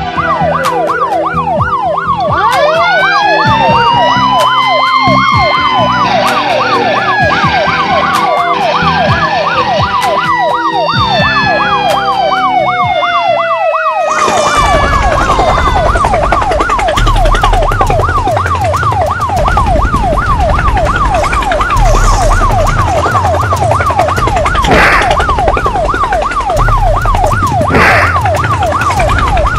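A fast, rapidly warbling emergency-vehicle siren yelp, going up and down in pitch several times a second. In the first half it is layered with swooping rising-and-falling tones over music; about halfway through a low rumble joins beneath the siren.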